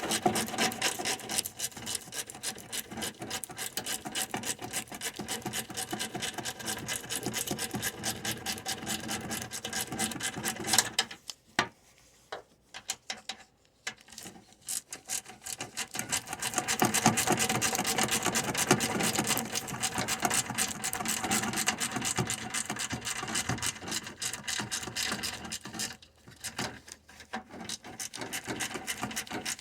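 Hand ratchet wrench clicking rapidly while tightening the bolts of a radiator bracket, stopping briefly about eleven seconds in and again near twenty-six seconds.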